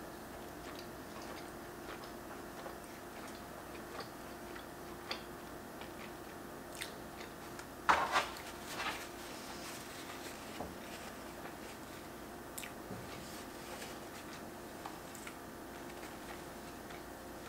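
Close-miked chewing of a cheeseburger: small wet mouth clicks and smacks, with a brief louder noise about halfway through, over a steady faint hum.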